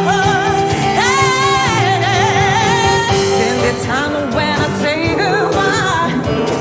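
Gospel mass choir singing a soul medley: a lead voice sings wavering runs with wide vibrato over held chord notes, continuously and loudly.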